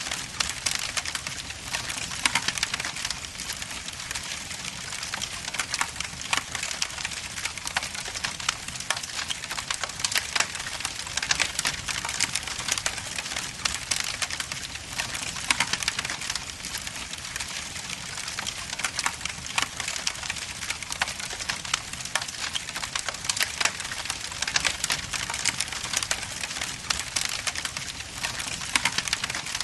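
Wood logs burning in a fireplace: constant dense crackling and popping over a steady hiss, with louder sharp pops every second or so.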